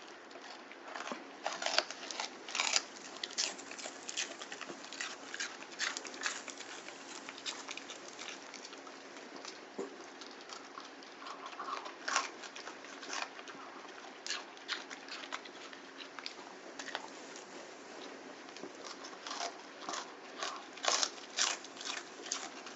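Irregular crisp crunching and tearing as a pet bites and chews bok choy leaves, many small bites in quick, uneven clusters.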